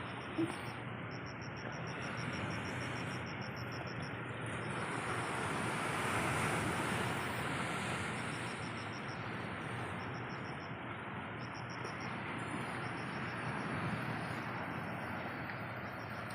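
Steady heavy rain hissing, swelling a little midway. A high insect trill, cricket-like, comes in repeated bursts over it, with a single small click near the start.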